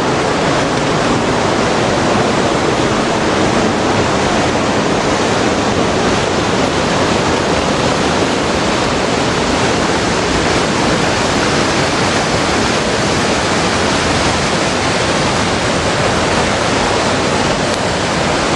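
Rushing water of a small river waterfall, a steady loud roar of falling water.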